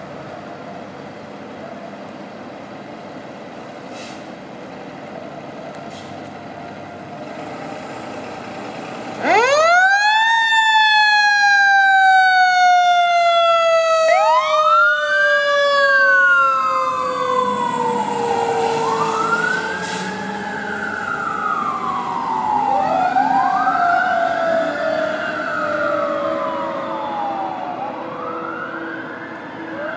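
Fire engine siren mix starting about nine seconds in. A mechanical Q siren spins up fast and then winds down slowly, while an electronic siren on manual sweeps up and down again and again over it. Before the siren starts, the truck's engine and traffic make a steady rumble.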